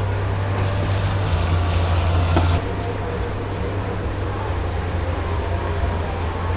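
Steady low hum of dish-pit machinery, with a hiss of spraying water lasting about two seconds from about half a second in, cut off sharply.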